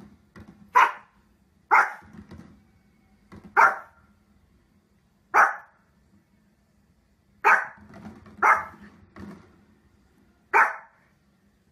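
A small Pomeranian barks in short, sharp, fairly high barks. There are seven loud ones, spaced unevenly about one to two seconds apart, with softer barks in between.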